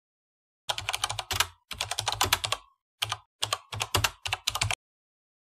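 Computer keyboard typing sound effect: quick runs of key clicks with a few short pauses, as text is typed out on screen.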